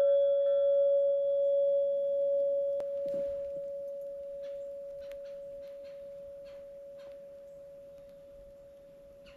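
A single bell-like note ringing out and slowly fading away, the last note of the outro music dying off. Its brighter overtones fade first, leaving one steady tone. A few faint ticks come in the middle.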